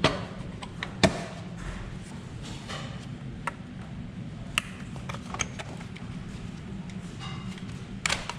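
Scattered taps and knocks of tools being worked on a car engine, two sharper knocks about a second apart near the start and a quick cluster near the end, over a steady low hum.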